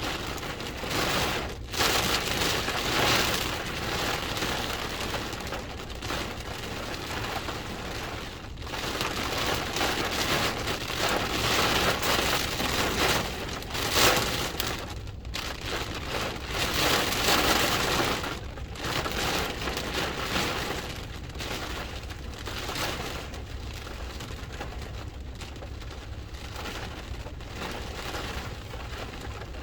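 Hurricane rain and wind: an even hiss of heavy rain that swells loudly in gusts several times, then eases to a steadier downpour in the second half.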